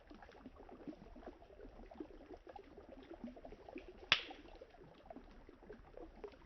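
Campfire crackling beside flowing river water, a soft steady patter of small pops and burbling, with one sharp loud crack of burning wood about four seconds in.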